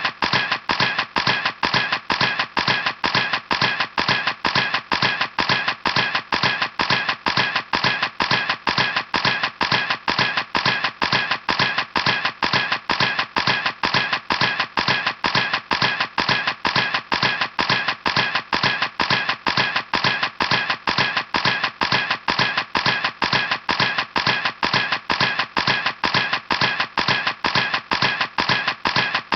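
Camera shutter clicking over and over in an even rhythm, about three clicks a second, each click alike.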